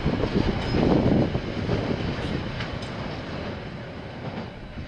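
A KiwiRail train running past on the line, a dense rumble of wheels on track with a few clicks, fading steadily as it moves away.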